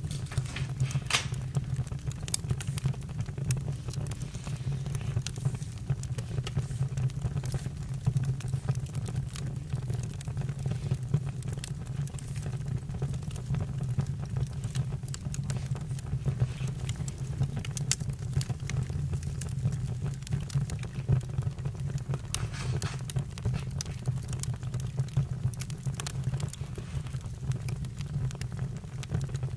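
Campfire burning: a steady low rumble under frequent irregular crackles and pops of burning wood.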